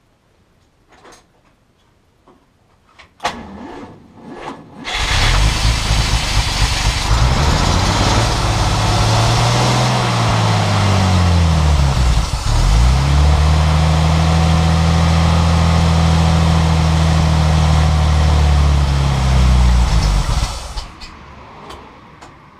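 A 1950 Dodge's newly installed engine, started for the first time: a few clicks and brief cranking, then it catches and runs. It is revved up and back down, settles at a steady speed, and is switched off near the end.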